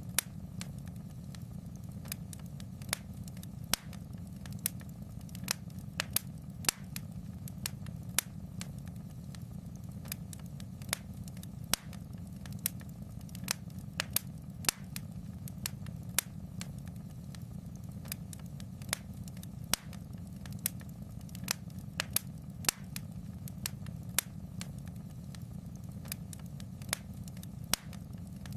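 Fire crackling in a fireplace: irregular sharp pops and snaps, about one or two a second, over a steady low rumble.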